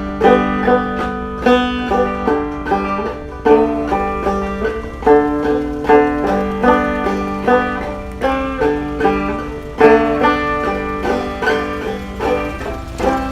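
Banjo playing an old-time tune without singing: a quick, steady run of plucked notes.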